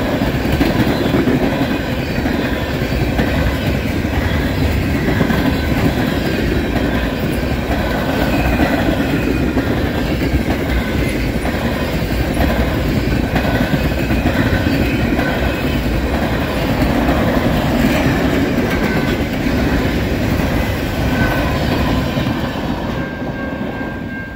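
Freight train of loaded tank cars rolling past at speed: a steady rumble of steel wheels on the rail with a clickety-clack of wheels over the joints. It fades in the last couple of seconds as the rear of the train moves away.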